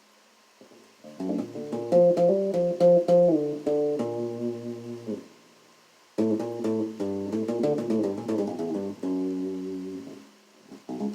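Solo bass guitar playing a melodic line in two phrases with short pauses between them, its ringing notes mixed with dead notes: muted strings plucked for a percussive click instead of a pitch. Another phrase begins near the end.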